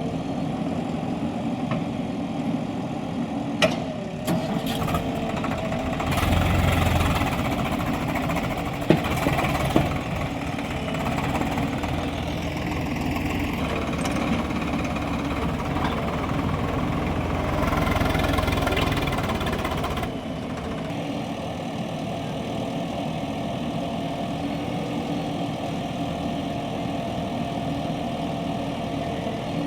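Diesel tractor engines running, revving up and getting louder twice, first around six seconds in and again for a few seconds before settling back to a steadier run. A few sharp knocks stand out near the start and around nine to ten seconds in.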